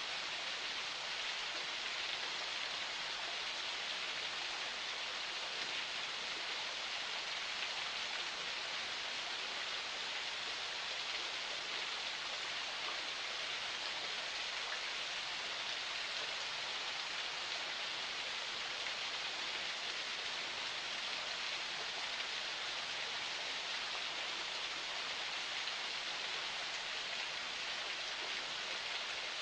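Water of a forest spring flowing steadily, an even hiss of running water with no change in level.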